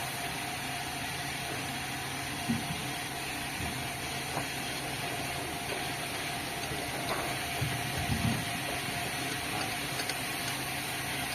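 Sawmill machinery running steadily: a constant mechanical hum with a higher steady tone over it, and a couple of brief knocks, about two and a half seconds in and again around eight seconds.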